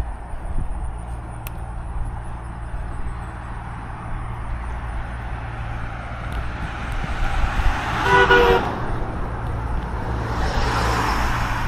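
Steady wind and road rumble from riding a bicycle, with a short vehicle horn toot about eight seconds in, then a vehicle passing near the end.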